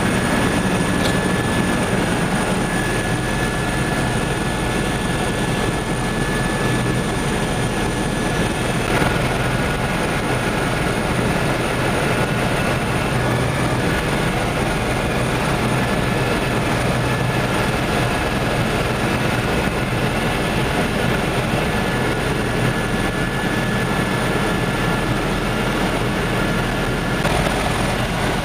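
Helicopter in flight heard from aboard: a steady rotor and engine drone with a constant high whine.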